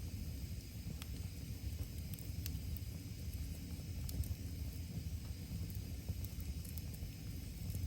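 Wood fire crackling, with a few scattered sharp pops and a steady hiss over a constant low rumble.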